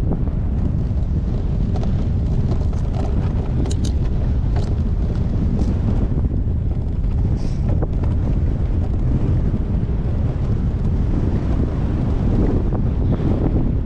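Steady wind noise buffeting the action camera's microphone on a moving bike, with a few faint ticks in the middle.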